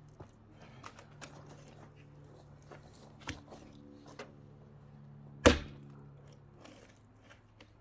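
An axe strikes a log once with a loud sharp chop about five and a half seconds in, splitting firewood. Small knocks come before it, over a faint steady hum.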